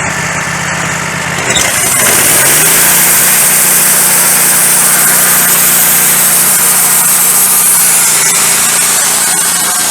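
Wood-Mizer LT15 Go sawmill's engine idling, then revving up about a second and a half in as the band blade is brought up to speed, running steadily with a loud high hiss.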